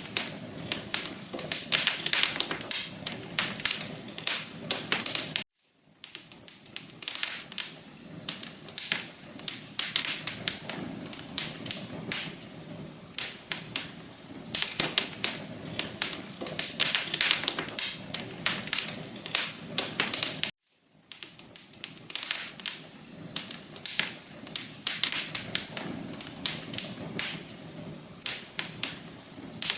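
Wood fire crackling in a fireplace: a constant run of irregular pops and snaps over a low hiss. The sound cuts out abruptly twice, for about half a second each time.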